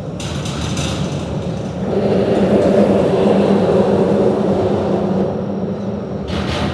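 A passing vehicle's low rumble with a steady hum, swelling about two seconds in and fading toward the end, as traffic going by the bridge.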